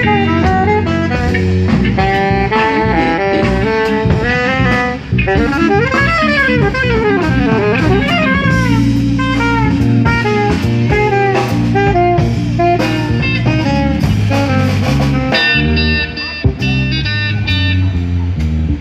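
Live instrumental jazz quintet playing: saxophone and trumpet lines over electric guitar, bass and drum kit.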